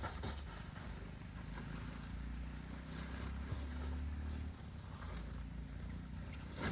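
Low, uneven rumble of wind buffeting the microphone outdoors, with a few faint ticks.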